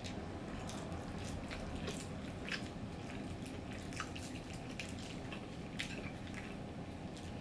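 Close-miked eating sounds from a fried chicken meal: irregular wet chewing and lip smacks, with small scattered clicks.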